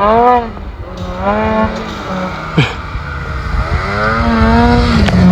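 Snowmobile engine revving up and down, its pitch rising and falling repeatedly as the throttle works.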